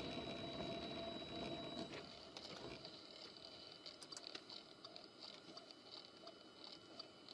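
Faint vehicle running noise with scattered light ticks, fading to near silence after about two seconds.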